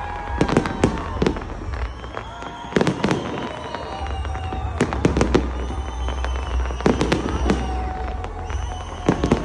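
Aerial fireworks bursting in a steady barrage, sharp bangs coming in quick clusters every second or two.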